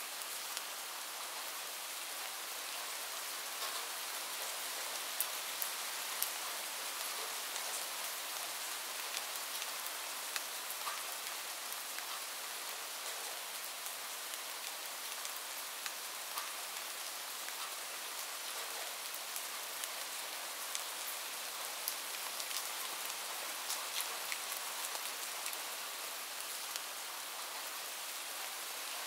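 Light rain falling: a steady hiss with many small, sharp ticks of individual raindrops striking a surface scattered through it.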